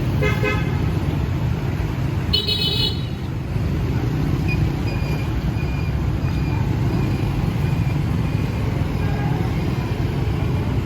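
Steady street-traffic rumble with two short vehicle horn honks: one just at the start and a higher-pitched one about two and a half seconds in.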